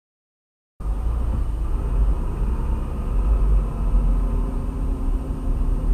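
Dead silence, then just under a second in a steady, heavy low rumble of a moving vehicle cuts in, engine and road noise heard from inside the cab, with a faint steady high whine above it.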